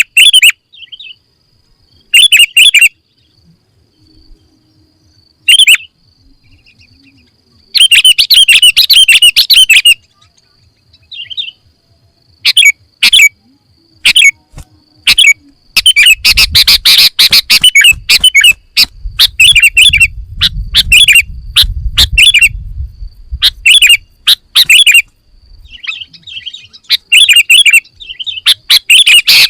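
Sooty-headed bulbul (kutilang) singing: short bursts of chattering, bubbly phrases separated by pauses, coming thick and fast in the second half. A faint steady high tone runs behind the song.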